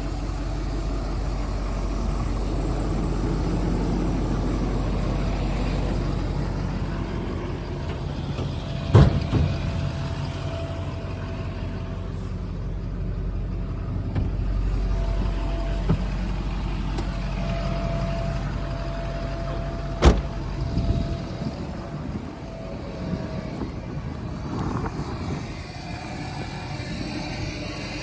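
Pickup truck engine running steadily, with a low rumble and a faint on-and-off whine. Two sharp knocks stand out, about nine seconds and about twenty seconds in.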